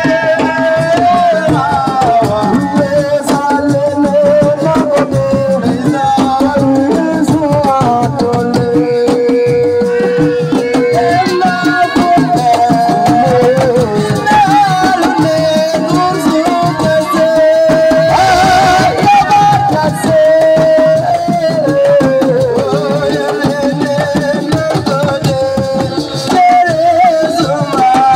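Assiko band music: a lead singer's melody over fast, dense drumming.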